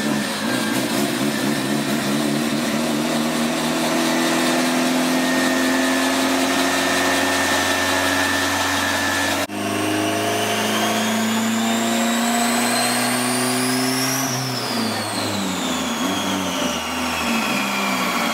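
Turbocharged B20V engine of a Honda Integra running steadily. About halfway through the sound breaks off and resumes, and a high whine climbs for about four seconds as the revs build, then falls away.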